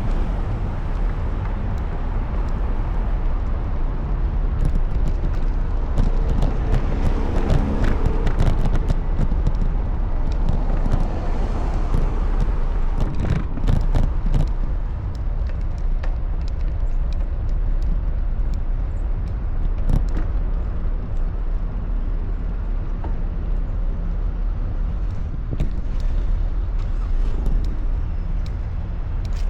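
Road traffic from a moving bicycle: cars passing, over a steady low rumble, with a few sharp clicks or rattles about 13 and 20 seconds in.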